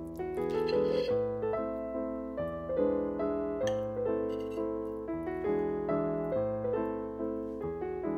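Background piano music: a slow, calm melody of ringing notes, each struck and left to fade.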